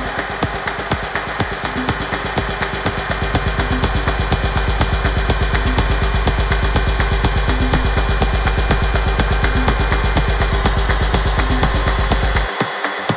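Afro-house DJ mix: a driving electronic beat with fast, even percussion and a heavy bass line that grows louder, then the bass drops out abruptly near the end.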